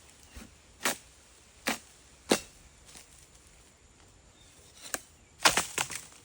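Sharp chopping strikes of a blade cutting into oil palm stalks or fronds: a few single strikes spaced roughly a second apart, then a quick cluster of strikes near the end.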